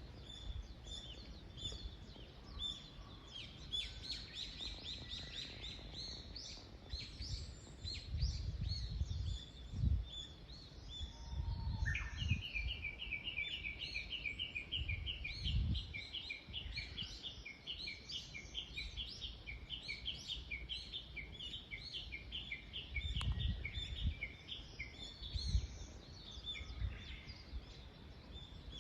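Several small birds singing and chirping in a dawn chorus. About twelve seconds in, one bird starts a long series of quick repeated notes that runs for about ten seconds. Low rumbles come and go underneath.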